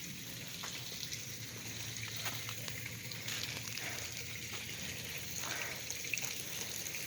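Lawn sprinkler spraying water: a steady hiss with faint scattered ticks.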